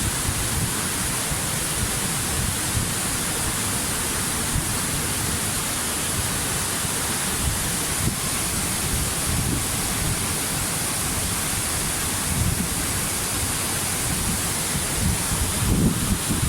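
Waterfall: falling water rushing steadily, with a low rumble underneath.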